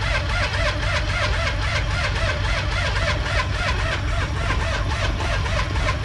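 Car engine running steadily at idle in freezing weather, just after a cold start.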